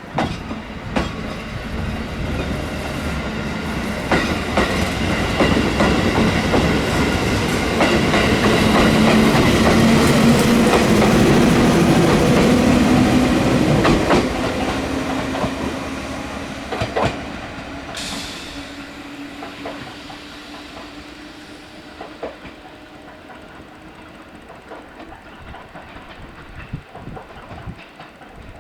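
A JR 213 series electric train pulling out of a station and passing by, its wheels clacking over the rail joints. It builds to its loudest about ten to thirteen seconds in, then fades as it draws away, with a sharp hiss about eighteen seconds in.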